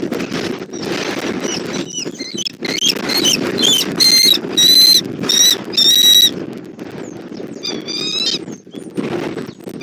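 Bald eagle calling a series of high-pitched chittering notes over strong wind buffeting the microphone. The calls build to their loudest about four to six seconds in, with a shorter run near the end.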